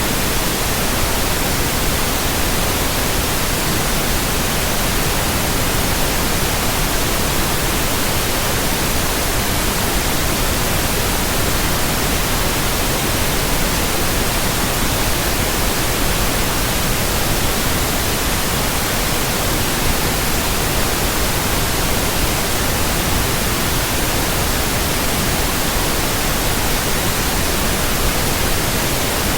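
Steady, loud white noise: an even hiss across the whole range of pitch, unchanging throughout.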